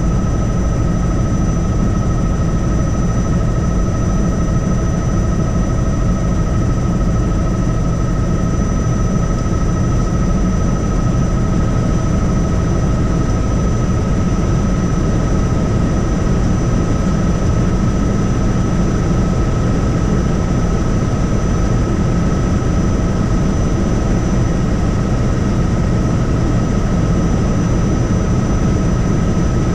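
Helicopter in flight: a steady, unbroken rotor and engine noise with a thin, steady high-pitched whine on top.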